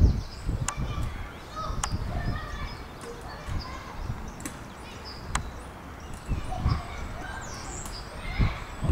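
Scattered short bird chirps and calls, with a few low thumps.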